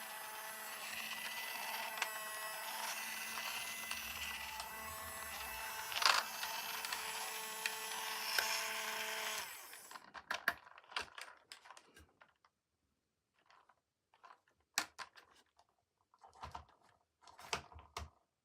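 A small motor whirring steadily, cutting off suddenly about halfway through. It is followed by scattered light clicks and taps of handling.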